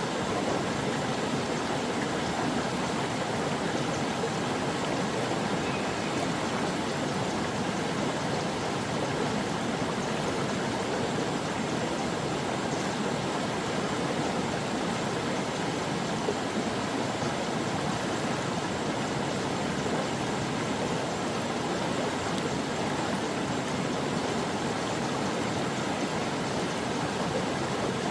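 A mountain stream flowing over rocks: a steady, unbroken rush of water.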